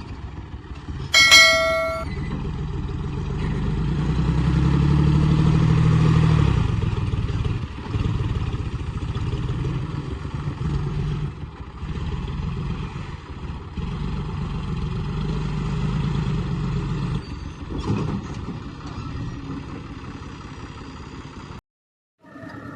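Heavy earth-moving machine's engine running steadily, revving up for a few seconds. A short ringing metallic clang comes about a second in.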